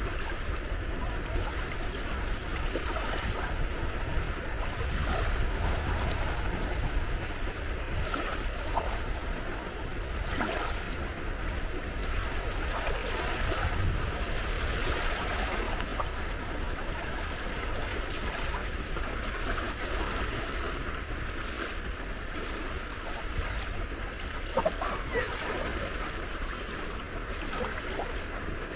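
Gentle sea waves washing against the shore, a steady wash of water with a low rumble underneath.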